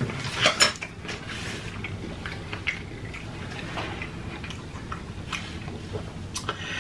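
Close-miked chewing of a mouthful of broccoli: wet mouth clicks and smacks, a few louder ones about half a second in.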